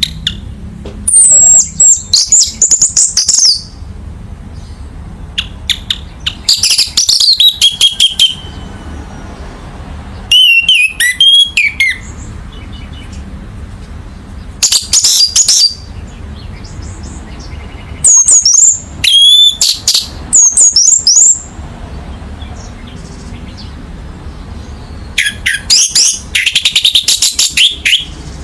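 Orange-headed thrush singing in loud phrases of one to three seconds, about seven of them, each a fast run of varied whistles, sweeps and chirps, with pauses between them. A steady low hum sits underneath.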